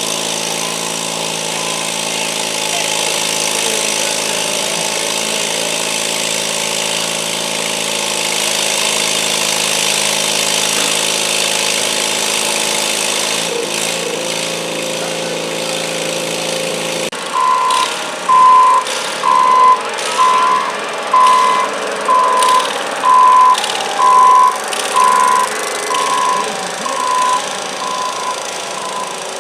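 A garden tractor engine runs steadily, then cuts off abruptly about two-thirds of the way in. A loud electronic warning beeper follows, sounding about once a second, a dozen times.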